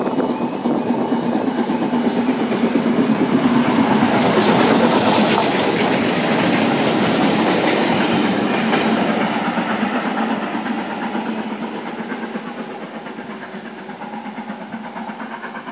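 LMS Princess Coronation Pacific 46233 'Duchess of Sutherland', a steam locomotive running light, passing with wheels clattering over the rails. It grows loudest about five seconds in, then fades as it moves away.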